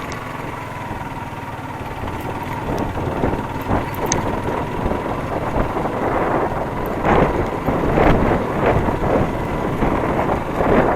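Motorcycle engine running steadily, with rough wind noise on the microphone growing stronger from about six seconds in.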